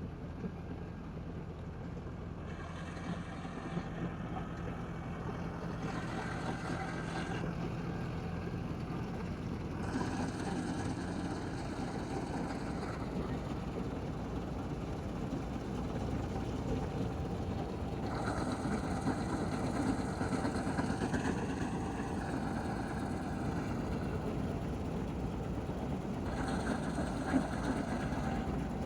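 Combine harvester's diesel engine running steadily. A brighter, higher mechanical sound comes and goes five times over it.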